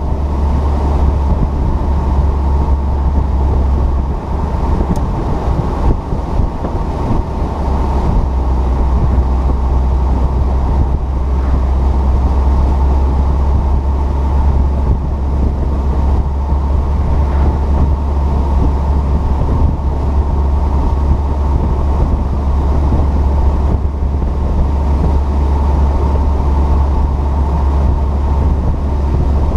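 2008 Saturn Sky Redline roadster cruising on the road: a steady, heavy rumble of engine, tyres and wind, with a faint steady whine mixed in.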